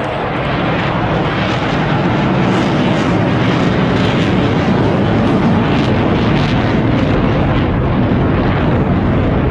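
Jet aircraft flying over, a loud steady engine rush that builds over the first couple of seconds and then holds.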